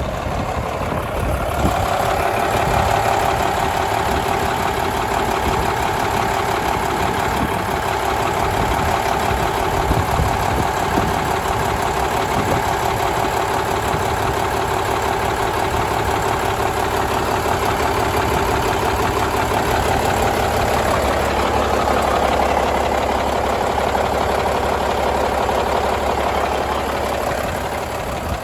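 Cummins N14 CELECT+ 14-litre inline-six diesel engine running steadily.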